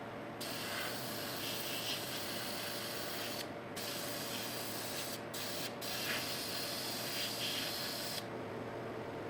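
Spray paint hissing steadily in long bursts, cut off briefly three times and stopping about eight seconds in, over a steady lower rush that carries on after it.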